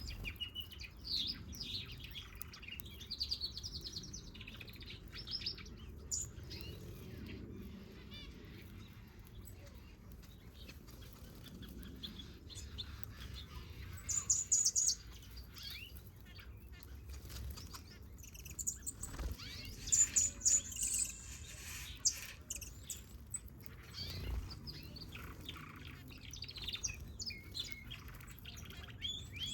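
Small aviary birds, finches and softbills, chirping and trilling, several calling at once in short high notes, with louder clusters of calls about halfway through and again a few seconds later.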